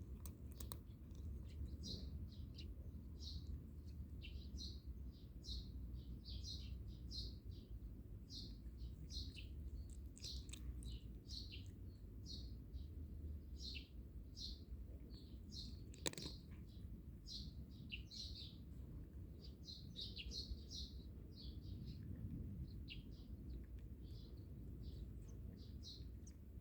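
Small birds chirping, short chirps about two a second throughout, over a low background rumble. A single sharp click comes about sixteen seconds in.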